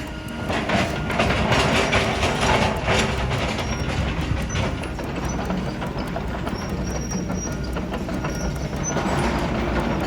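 Excavator working on demolition: a steady low diesel rumble under dense clattering, knocking and crunching of broken concrete and debris, heaviest in the first few seconds.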